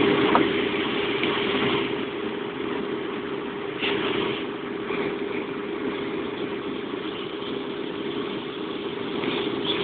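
Steady running noise of a passenger train heard from inside the carriage, with a constant hum.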